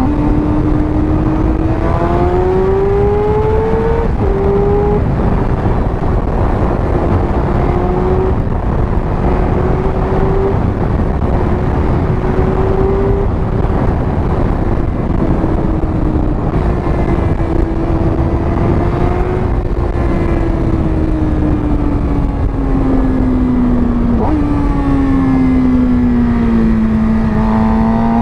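Sport motorcycle engine with an aftermarket exhaust under way: its note climbs in the first few seconds, steps to a new gear about four seconds in, holds fairly steady while cruising, falls away near the end and starts to climb again. Wind rushes over the microphone throughout.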